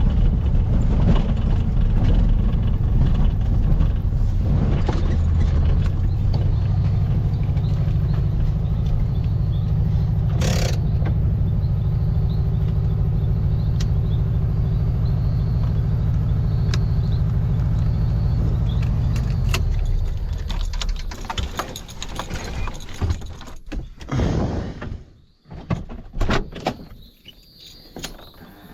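1700cc Baja Bug's air-cooled Volkswagen flat-four running steadily, then shutting off about twenty seconds in. A few knocks and rattles follow.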